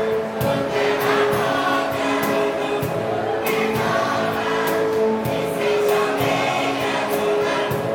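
A choir singing a song with held notes over accompaniment that has a light, regular percussive beat.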